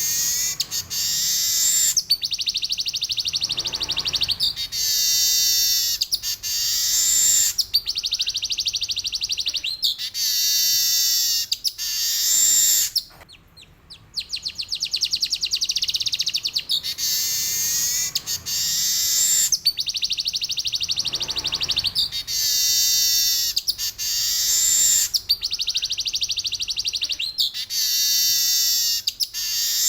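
Male weaver bird (manyar) singing a long rolling song of fast, buzzy trills and sharp chattering notes, almost without pause, breaking off briefly about 13 seconds in before starting again.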